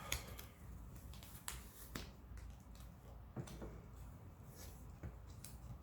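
Hands handling duct tape around a pinpointer's plastic body: a few faint, scattered clicks and rustles.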